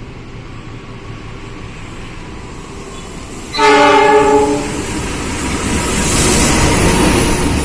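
Train horn sounding one blast of about a second, followed by the building rumble and rattle of a train running through the station.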